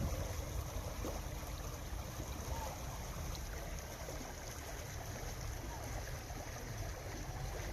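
Running water of a stream, a steady rushing, with wind rumbling on the microphone.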